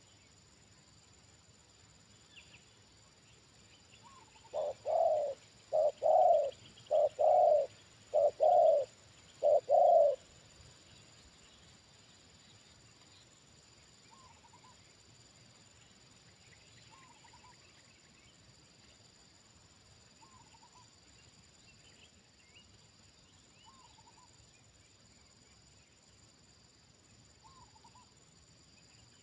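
Spotted dove cooing: a phrase of five loud double coos over about six seconds, starting several seconds in. Afterwards only a faint short call repeats every three seconds or so, with faint chirping from small birds.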